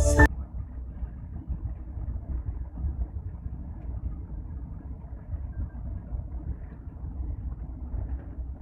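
Moving passenger train's steady low running rumble, with a flickering, uneven texture. A few bars of ambient music cut off just as it begins.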